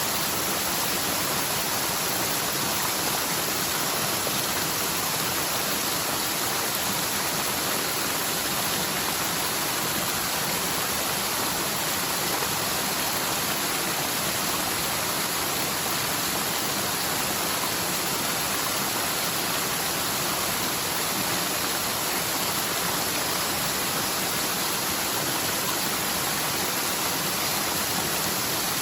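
Rain-swollen mountain stream rushing steadily down a forest slope, its flow fed by typhoon rain in a channel that is normally almost dry.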